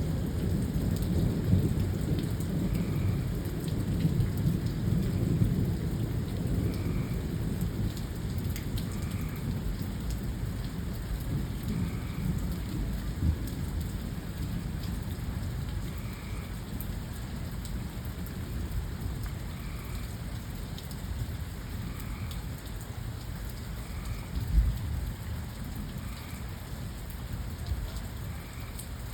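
Steady rain falling, with a low rolling thunder rumble that is heaviest over the first several seconds and then fades away. A single sharp low thump comes about 24 seconds in.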